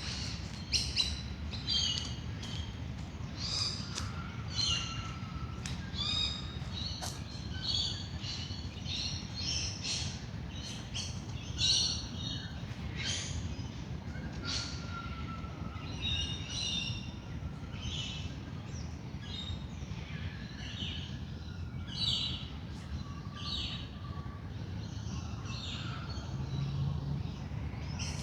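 Dawn chorus of wild birds: many short chirps and calls overlapping throughout, over a steady low rumble.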